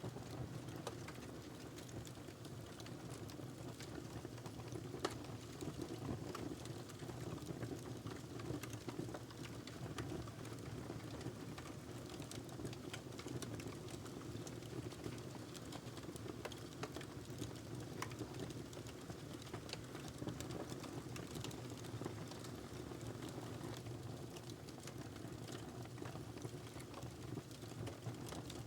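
Wood fire crackling in a fireplace: a steady low rumble of flames with frequent irregular small pops and snaps, one sharper pop about five seconds in.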